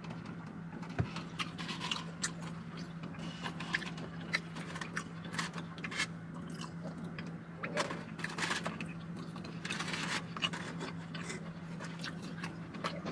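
Close-miked chewing of crispy lemon pepper fried chicken wings: irregular crunches, clicks and wet mouth sounds at an uneven pace, over a steady low hum.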